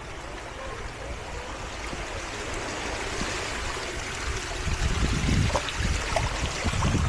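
Surf washing up a sandy beach, the rush of water swelling over the first few seconds, with wind buffeting the microphone in low gusts in the second half.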